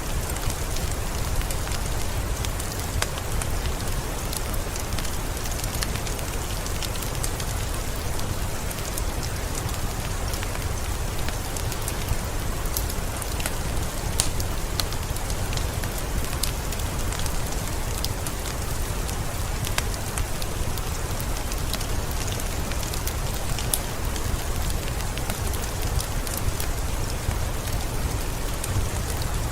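Steady rain falling, mixed with the crackle of a wood fire in a fireplace: a constant wash with many small scattered pops and snaps.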